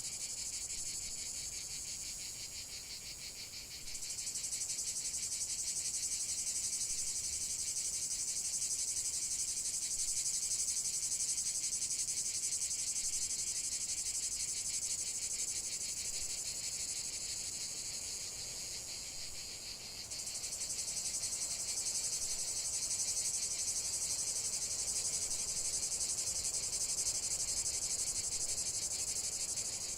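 Dense chorus of chirring insects: a steady, high, rapidly pulsing trill. It sags a little, then jumps back abruptly about four seconds in and again about twenty seconds in.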